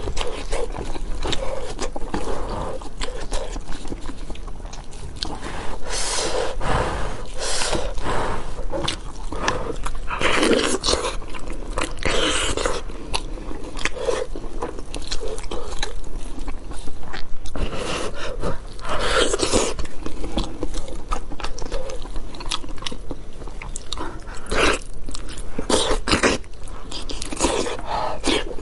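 Close-miked eating of braised pork knuckle: biting and chewing the sticky skin and meat, with irregular wet crackles as the meat is torn apart by gloved hands.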